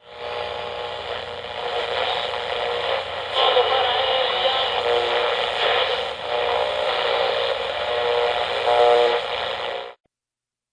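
Old radio-broadcast train sound effect: a railway locomotive running, with held pitched tones over steady noise, swelling in stretches, before it cuts off suddenly about ten seconds in.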